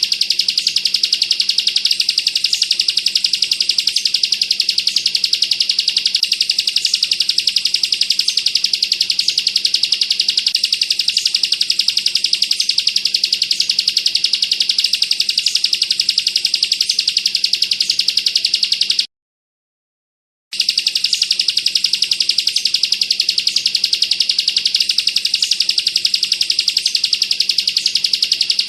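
Bar-winged prinia (ciblek) singing its dense 'bren' song, a fast, unbroken rattle of closely packed high notes. It cuts out completely for about a second and a half about two-thirds of the way through, then carries on unchanged.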